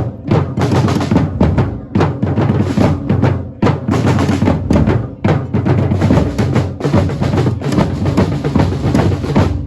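Loud drumming: drums beating a dense, continuous rhythm with a heavy bass drum.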